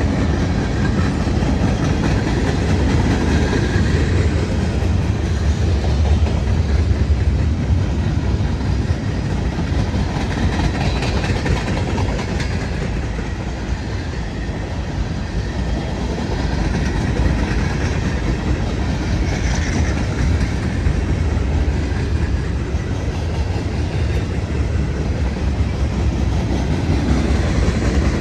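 A train rolling past on the track: a steady, heavy rumble of cars on the rails that dips a little in level around the middle.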